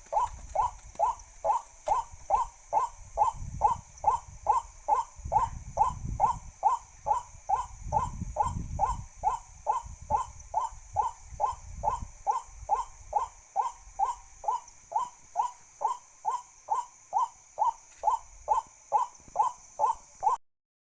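A bird call, one short falling note repeated very evenly about two to three times a second without a break, over a steady high hiss. Low rumbling comes in during the middle.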